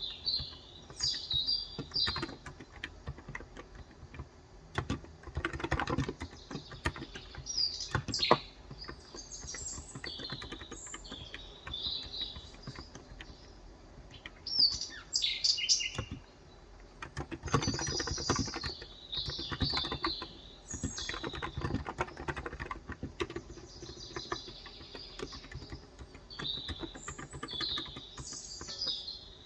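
Typing in irregular bursts on a COX Endeavor tenkeyless keyboard with 35 g electrostatic capacitive (Topre-style) switches, with small birds chirping and singing repeatedly in the background.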